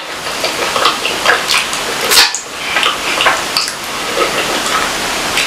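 Close-miked eating: wet chewing and mouth smacks with irregular clicks and crackles, a sharper smack about two seconds in.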